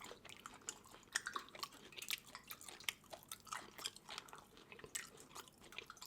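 Close-up wet chewing and mouth smacks of someone eating seafood okra soup, a run of small irregular clicks and squelches.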